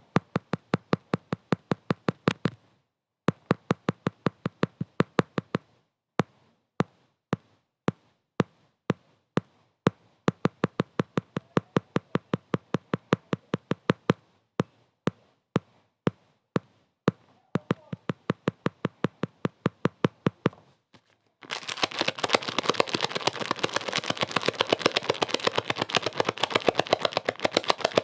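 Sharp clicks repeating about five times a second in runs, broken by short pauses; about 21 seconds in, a dense crackling hiss full of clicks takes over.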